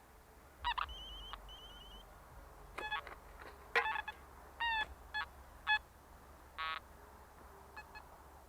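Metal detector target signals: a series of short electronic beeps at differing pitches, one bending in pitch, with a brief warbling tone early on.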